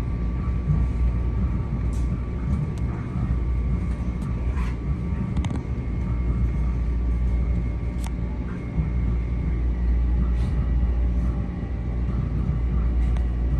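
Steady low rumble and hum of an M7A electric multiple-unit railcar standing with its equipment running, with a faint steady electrical whine and a few light clicks.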